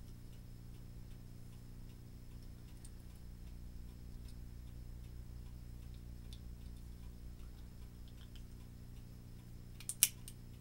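A clock ticking steadily in the room over a low hum. Near the end comes a single sharp click, the loudest sound, as a plastic model part is pressed into place.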